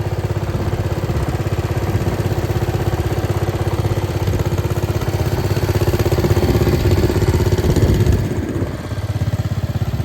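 Case 222 lawn tractor engine running with a steady, even firing beat. It gets a little louder past the middle, then eases off briefly near the end before settling back.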